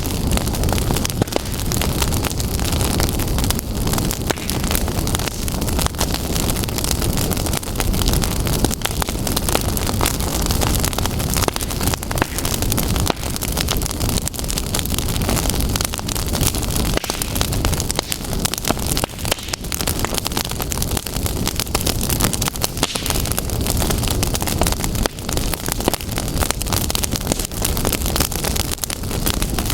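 Fire crackling and popping: dense, continuous small crackles over a steady rushing noise.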